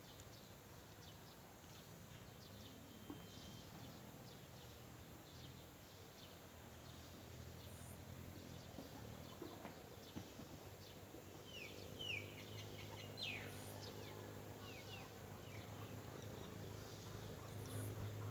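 Faint short bird chirps, a cluster of quick downward-sliding notes about two-thirds of the way through, over steady outdoor background noise. A low droning hum builds up near the end.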